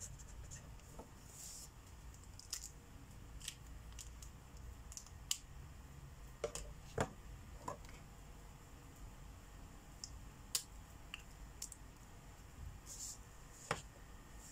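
About ten irregular sharp clicks and taps of markers being handled, such as caps snapped on and off and pens set down. There are also a few short scratchy strokes of a marker tip on paper.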